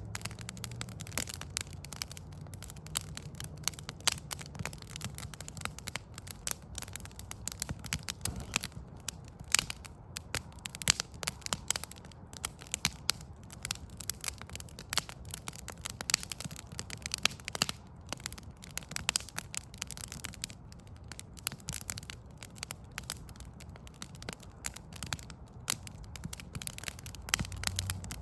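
Outdoor wood fire crackling, with a constant stream of irregular snaps and pops from the burning logs over a low steady hum.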